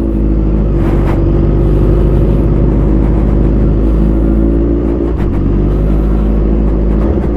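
Kawasaki Z1000's 1043 cc inline-four running under way through an aftermarket Austin Racing dual exhaust, its engine note fairly steady, with a brief break about five seconds in.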